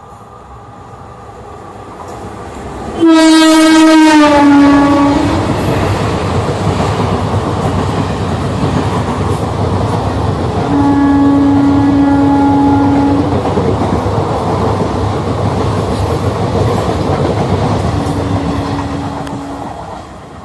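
Indian Railways express train running through a station at speed. The locomotive's horn sounds a long blast as it arrives, dropping in pitch as it passes. The coaches then rattle past on the rails, with two more horn blasts, one of about two seconds and a shorter one, before the sound fades away.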